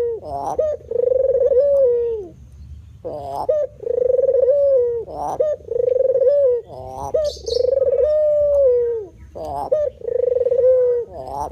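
White spotted dove (terkukur putih) cooing over and over. Each phrase opens with a quick upward swoop and settles into a long, steady low coo, repeated every couple of seconds.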